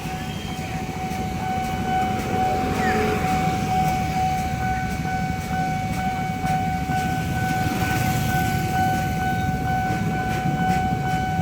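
A steady single-pitched tone held over a low traffic rumble, with a second, higher tone joining about four seconds in.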